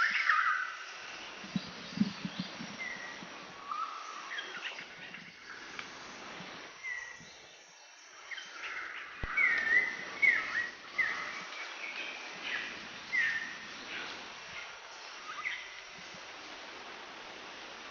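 Birds chirping with many short calls and whistled notes, busiest in the middle, over a steady background hiss.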